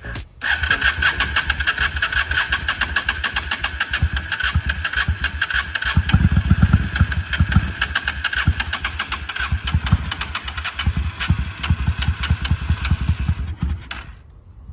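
1999 Honda Shadow ACE 750's V-twin engine starting and running after a carburetor swap, with surges in level, then cut off about 14 seconds in.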